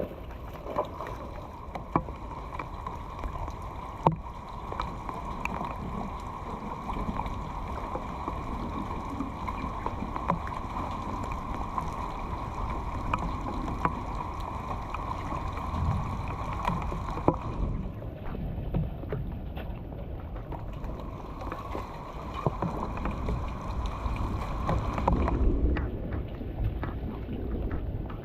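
Water rushing and splashing steadily, with wind buffeting the microphone and scattered sharp knocks. The sound changes abruptly twice, in the second half.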